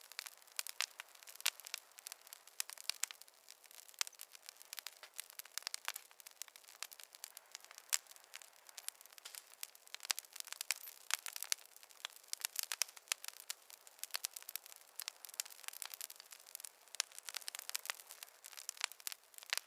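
Wood fire crackling in a fireplace: a steady stream of irregular sharp pops and snaps over a light hiss, with no low rumble.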